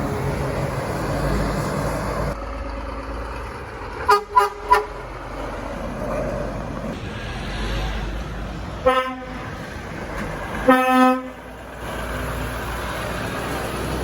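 Passing trucks sounding their horns over steady road traffic noise: three quick higher toots about four seconds in, a single short lower toot about nine seconds in, and a longer blast about eleven seconds in.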